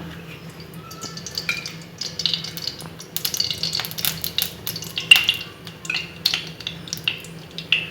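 Oil sizzling in a hot pan, with irregular crackles and clicks.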